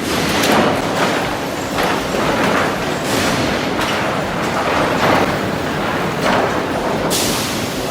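Lumber-mill machinery running: a steady mechanical rumble with boards rattling and knocking along the line.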